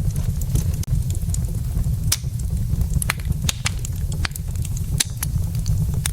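Wood fire burning in a fireplace: many sharp crackles and pops of burning logs over a steady low rumble, with a few louder snaps about two, three and a half and five seconds in.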